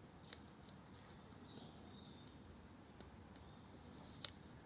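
Quiet room tone with two short, sharp clicks about four seconds apart, from small metal carburettor parts and a tiny drill bit being handled.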